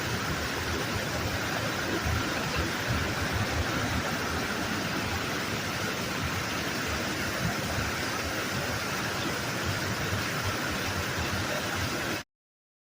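Waterfall: a steady, even rush of falling water that cuts off suddenly about twelve seconds in.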